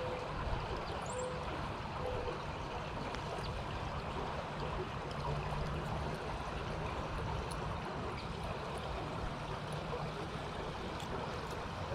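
Steady rushing flow of water, with wind buffeting the microphone.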